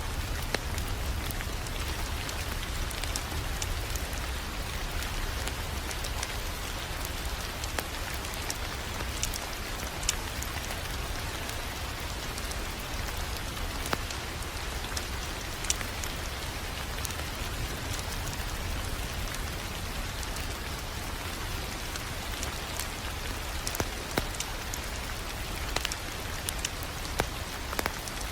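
Wood fire crackling: scattered sharp pops and snaps over a steady hiss, with a low rumble underneath.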